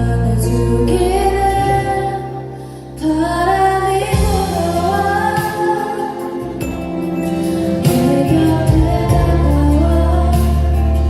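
Concert performance: voices singing a melodic song over sustained instrumental accompaniment, dipping briefly in loudness about three seconds in before the singing rises again.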